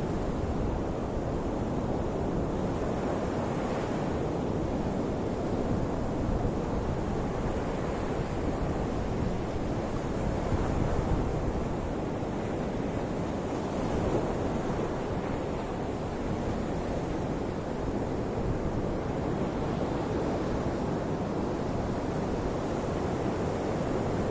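Ocean waves washing on the shore as a steady surf rush, swelling gently now and then, with wind noise on the microphone.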